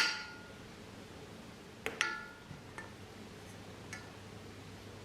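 Light metallic clinks of a kitchen knife against the metal air-fryer baking tin while a loaf is scored: a sharp clink with a short ring at the start, two more about two seconds in, then a couple of fainter ticks.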